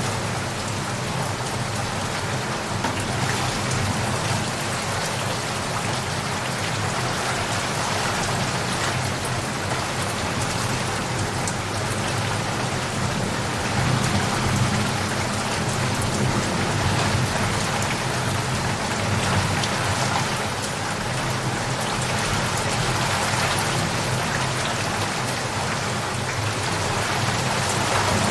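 Steady heavy rain falling and pattering on surfaces, with a low rumble of distant thunder swelling at times, most around the middle.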